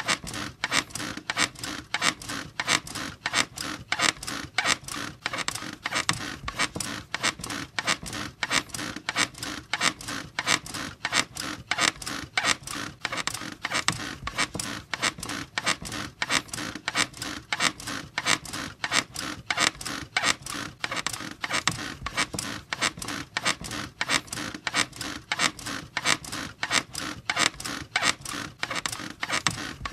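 Squeaky bed creaking over and over in a quick, even rhythm.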